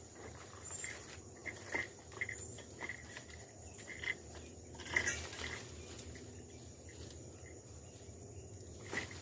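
Faint insects chirping in vegetation, with a thin steady high whine and short repeated chirps, broken by a few light crackling clicks.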